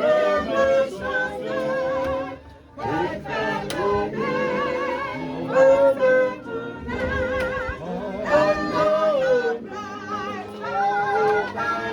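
A choir-led group of voices singing a hymn, with wavering sustained notes and a short breath pause between phrases a little under three seconds in.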